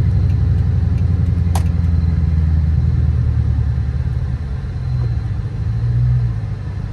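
The 2013 Dodge Charger R/T's 5.7-litre Hemi V8 rumbles on the move, heard from inside the cabin. Its note climbs a little about two-thirds of the way in, then falls away.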